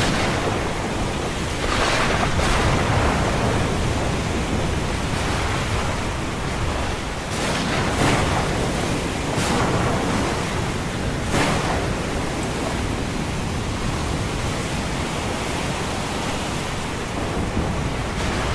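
Ocean surf: a steady wash of breaking waves, with several brief sharp crashes in the first dozen seconds.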